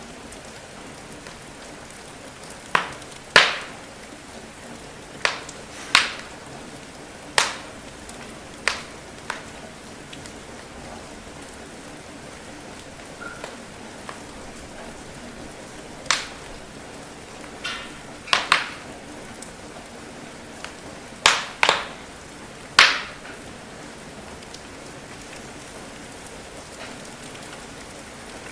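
Steady rain hiss with a wood fire crackling over it: about a dozen sharp, irregular pops from burning logs, the loudest of the sounds, with a quiet stretch in the middle.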